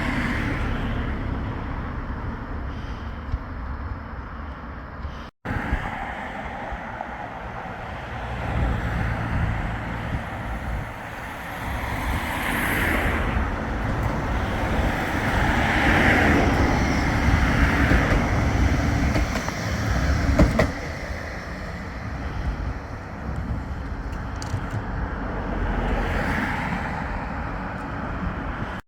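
Tram and road traffic running past, a rumble with several rising and falling swells. The sound drops out for an instant about five seconds in.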